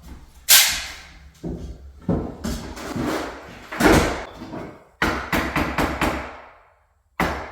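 Hammering and banging during floor work: a loud bang about half a second in, rough knocking and scraping after it, a quick run of five or six sharp strikes about five seconds in, and another bang near the end.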